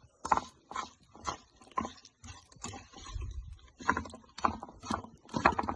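A run of irregular light knocks and clicks, a few a second, like things being handled and tapped together.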